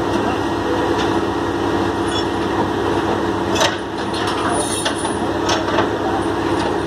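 A heavy vehicle's engine running steadily, with a few sharp knocks in the second half.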